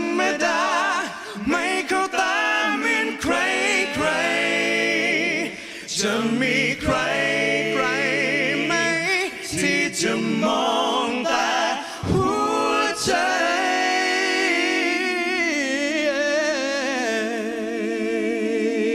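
Several voices singing a slow Thai ballad in harmony, a cappella, with strong vibrato in short phrases and ending on a long held note.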